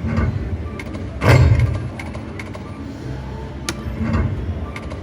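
Video slot machine sound effects and jingle music over casino background noise, with a loud hit about a second in as the reels land.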